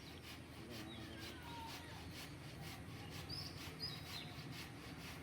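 Faint bird chirps, a few short calls with two high ones about three seconds in, over a low steady background hum.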